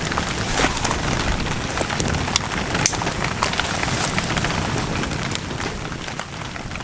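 Steady rain falling, with many scattered sharp drop ticks, beginning to fade out near the end.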